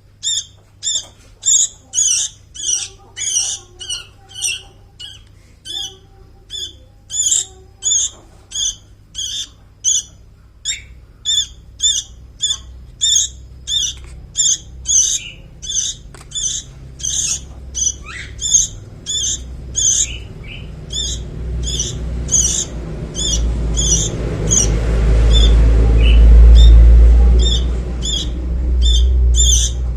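Young sooty-headed bulbul (kutilang) chick calling over and over with short, high chirps, about one and a half to two a second. A loud low rumble swells in the last third.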